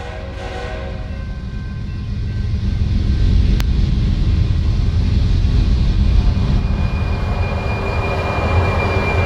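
A freight train led by a GE ES44AC diesel locomotive is passing. The tail of its horn dies away at the start, then the deep engine and rail rumble grows louder over the first three seconds and holds steady. A single sharp click comes about three and a half seconds in, and a thin, steady high tone sets in over the last couple of seconds.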